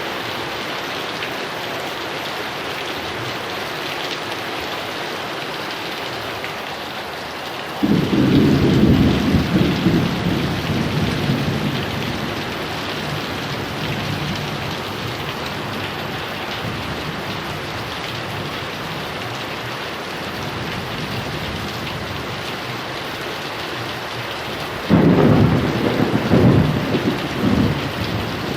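Heavy rain falling steadily, with two rolls of thunder: one breaking out about eight seconds in and rumbling away over several seconds, and a second, sharper one near the end.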